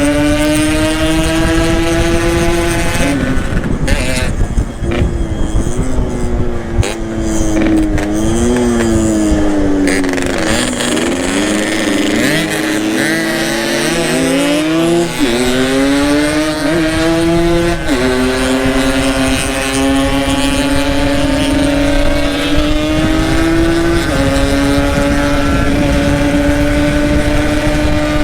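Yamaha RX-King's two-stroke single-cylinder engine running on the road. Its note climbs slowly and drops sharply at gear changes about 3, 18 and 24 seconds in. In the middle the pitch rises and falls, and a second engine note briefly crosses it.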